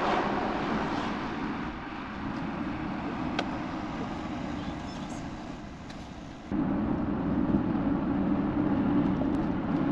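Steady road and engine noise of a moving car, with no distinct events; about six and a half seconds in it steps up suddenly to a louder, fuller rumble.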